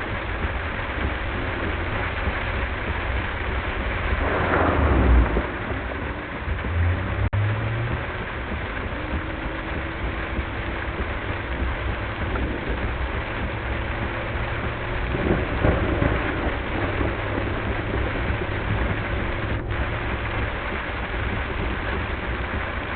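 Heavy rain on a moving car, mixed with the car's low road and engine rumble, played at double speed. Thunder swells up loudly about four to five seconds in and again around fifteen seconds.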